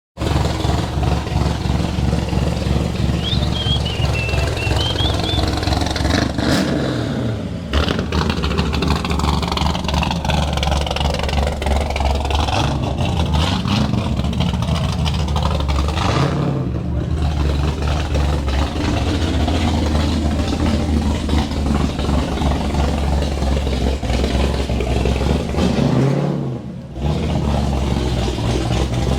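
Car engines running and revving, in separate clips that break off abruptly about every nine seconds.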